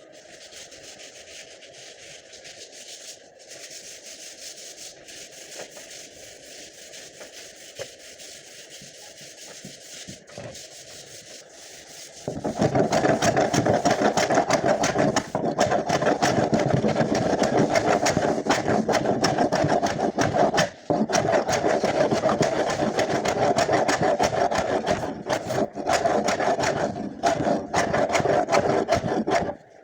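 A fainter steady rubbing sound, then about twelve seconds in a small power tool starts abruptly and runs loudly, with a fast, even chatter.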